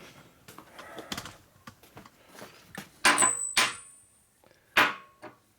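Steel sockets being gathered and set down on a workbench: soft handling knocks, then three sharp metal clanks with a short ring, the last about a second after the first two.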